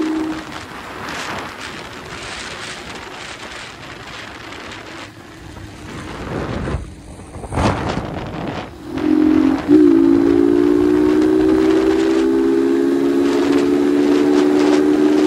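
Wind rushing over the microphone on a 150 cc motorcycle at speed; from about nine seconds in, the engine's steady high-pitched drone at full throttle comes through, its pitch slowly rising as the bike keeps pulling.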